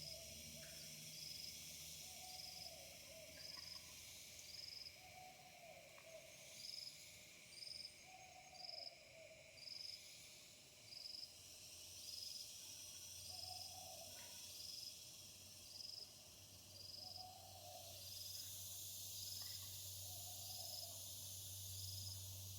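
Faint night chorus of animals: a short high chirp, likely an insect, repeating about once a second, and a lower hooting call every few seconds.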